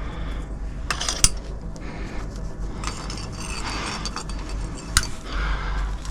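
Metal climbing gear clinking and rattling, with sharp clicks about a second in and again near the end, and rubbing and scraping in between.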